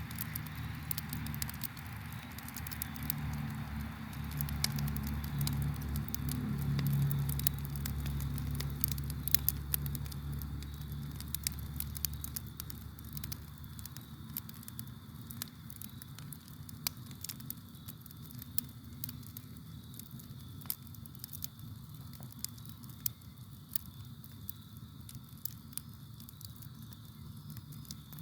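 Campfire crackling with frequent sharp pops, over faint steady cricket song. A low rumble underneath fades out about twelve seconds in.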